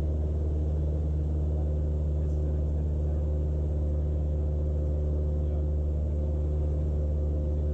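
Cessna 172's piston engine and propeller droning steadily in cruise, heard in the cockpit.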